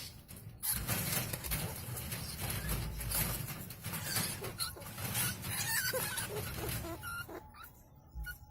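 A bird and a rat fighting: busy scrabbling and rattling with brief high cries, dying down near the end.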